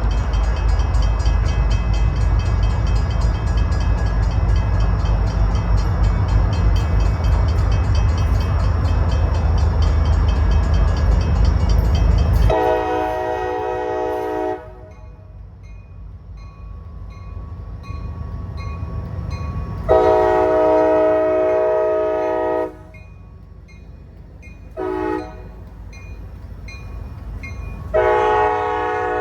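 A diesel freight locomotive runs loud and close for about twelve seconds, then the sound gives way abruptly. The locomotive's horn follows, sounding the grade-crossing signal: long, long, short, long. The last long blast begins near the end.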